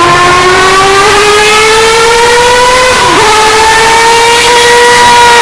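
Mazda 767B four-rotor rotary racing engine pulling hard, its pitch climbing steadily for about three seconds, dipping sharply for an instant, then holding high and easing slightly near the end. Very loud and shrill.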